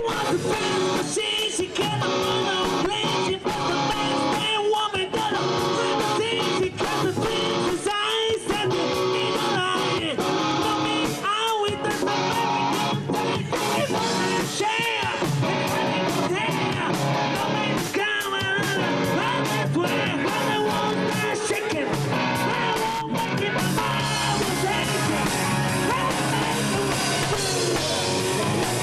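Live rock band playing loud: electric guitars and a drum kit, with a singer. The bass fills out near the end.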